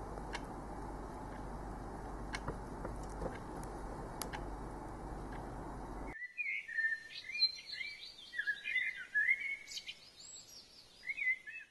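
Steady background noise with a few faint clicks. After a cut about six seconds in, a songbird sings in short, quick chirping phrases that come and go.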